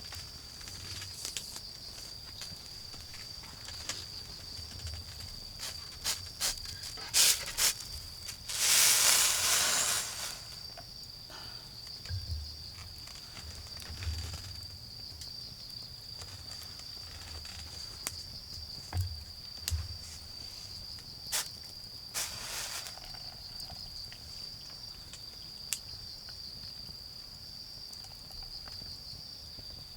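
Autumn insects chirring in a steady high trill, over the scattered crackles and pops of a wood fire. A loud noisy burst lasting about a second and a half comes about nine seconds in, and a shorter one near the end of the third quarter.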